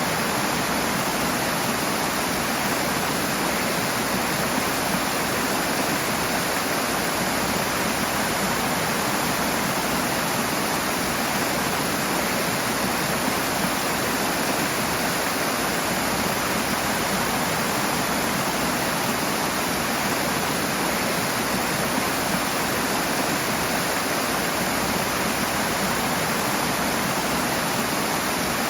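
Rushing water: a steady, even rush with no breaks or separate events.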